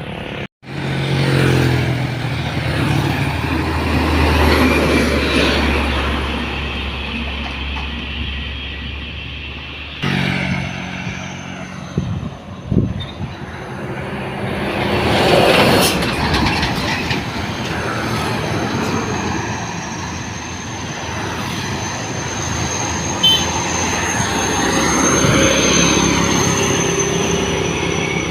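Heavy diesel truck engines laboring under load on a steep climb, running steadily loud, with abrupt cuts to another truck just after the start and about ten seconds in; a thin high whine runs through the second half.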